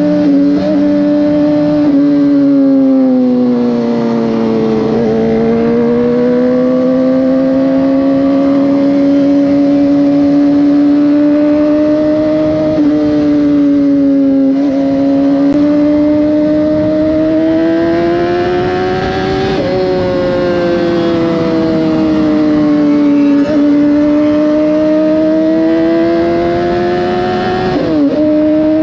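Motorcycle engine heard from the rider's own bike, its pitch rising and falling with the throttle on winding roads, with several quick dips and jumps in revs at gear changes.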